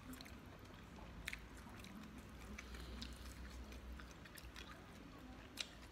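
Faint chewing of lobster meat, with a few scattered small clicks as pieces of cooked lobster shell are picked apart by hand.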